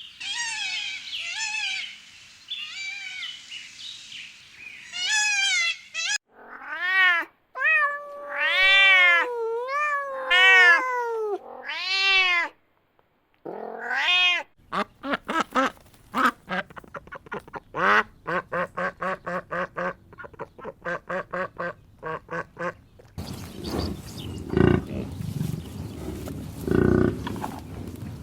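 A run of animal calls: high, rising-and-falling meows for the first dozen seconds, then fast repeated quacking, about three calls a second, from about halfway through. A rougher, noisier stretch of sound follows for the last few seconds.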